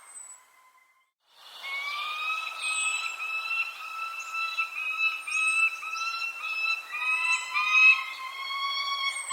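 Birds calling: a dense run of short, clear whistled notes, over which a few brief, high, falling chirps sound. The calls drop out to near silence for about a second near the start, then resume.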